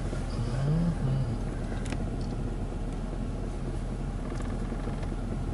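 Ryko Softgloss Maxx automatic car wash running, a steady noise of brushes and machinery as the top brush comes down. A brief low rising tone sounds about a second in.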